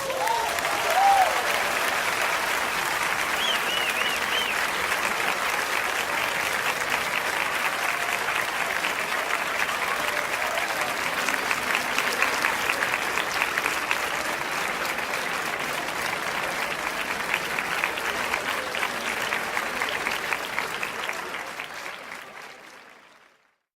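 Crowd applauding, with a few cheers in the first few seconds; the clapping fades out near the end.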